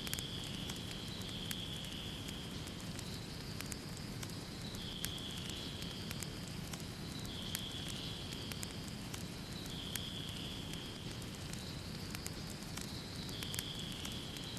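Wood fire crackling in a fireplace: a steady low rush of flames with frequent sharp pops and snaps. A high hiss comes and goes about every two and a half seconds.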